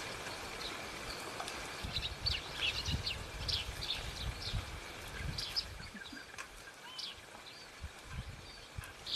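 Small birds chirping in short, quick calls, many sweeping downward, over steady outdoor background noise with a faint steady high tone and a low rumble.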